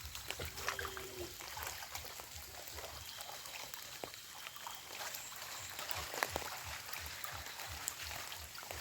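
Rain falling with water trickling and dripping steadily, scattered with small sharp ticks of drops.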